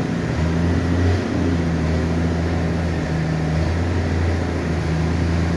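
1966 Ford F100 pickup's engine running cold, its choke and accelerator linkages disconnected: a steady low drone that dips briefly twice, about one and three seconds in.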